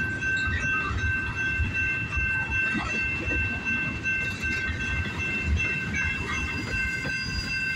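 Freight cars of a CN mixed-freight train rolling past: a steady low rumble with irregular clacking of wheels over the rail joints. A steady high-pitched tone rings over it.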